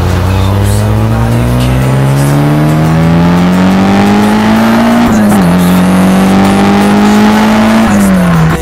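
Mitsubishi Lancer Evolution VI's turbocharged four-cylinder accelerating hard through an aftermarket exhaust, the revs climbing steadily, dropping at a gear change about five seconds in, climbing again, then falling off near the end.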